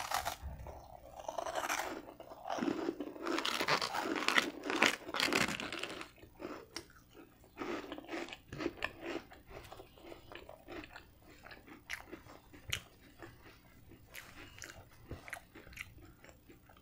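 Close-up biting and chewing of crunchy, heavily toasted garlic bread dipped in ranch. The crunching is loudest for the first six seconds or so, then gives way to quieter, scattered chewing clicks and mouth sounds.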